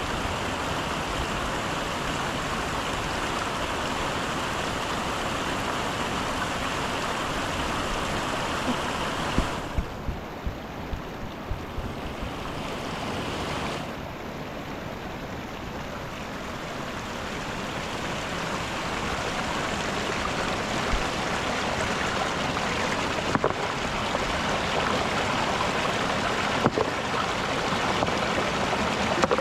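Mountain river water rushing steadily, with a few sharp knocks scattered through it, a cluster of them about ten seconds in.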